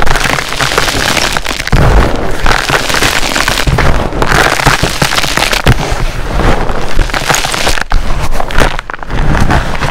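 Dyed SPRI gym chalk blocks being crushed, a dense run of crunching and crackling with many sharp snaps that keeps going without a break.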